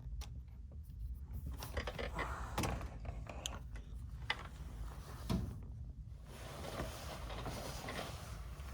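A string of scattered knocks and clunks from things being handled while packing up to leave, with one louder thunk about five seconds in, over a low steady rumble.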